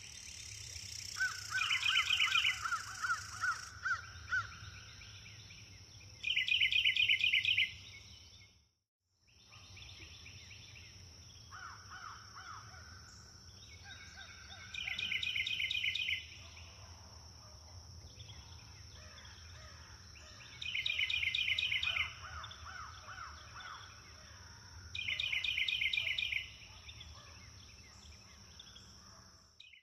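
Birds calling: a rapid pulsed chatter in bursts of about a second and a half, repeating every four to five seconds, with a lower run of quick notes now and then, over a steady high-pitched insect drone. The sound drops out completely for a moment about nine seconds in.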